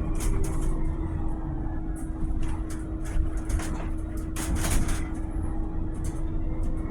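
Volvo BZL two-motor electric bus running: a steady low rumble with a constant whine held at one pitch, and scattered short rattles and knocks.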